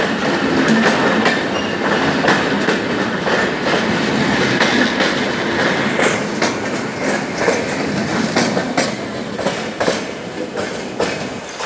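Express train of LHB passenger coaches rolling past, wheels clacking over the rail joints in irregular sharp clicks over a steady rumble. The sound eases off near the end.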